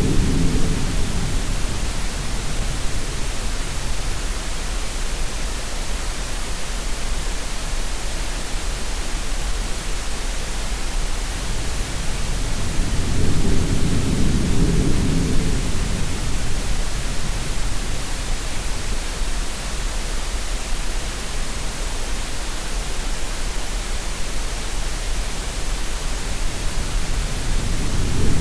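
Steady green noise hiss layered with sea sounds: a low swell like a wave rises and falls about every fourteen seconds, near the start, around the middle and again at the end.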